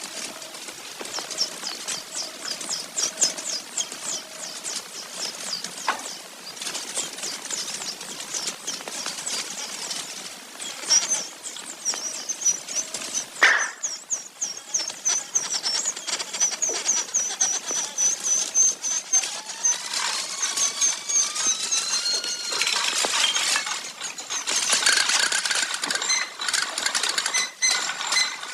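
Small birds chirping in fast repeated trills of short high notes, with scattered clicks and a few rising whistled notes about two-thirds of the way through.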